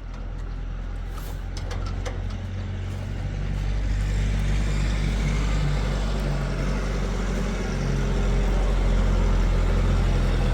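A motor or engine running with a steady low hum, growing louder over the first few seconds, with a few light clicks early on.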